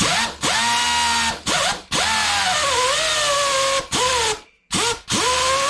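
A melted, heavily damaged pneumatic angle grinder run in several short bursts on its trigger. Each burst starts with a rising whine as the motor spins up, over a hiss of air, and the pitch sags briefly in the longest run. It is still running despite the damage.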